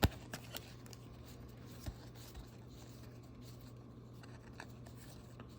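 Light handling of trading cards and their packaging: one sharp click at the start, then a few faint clicks and rustles, over a steady low hum.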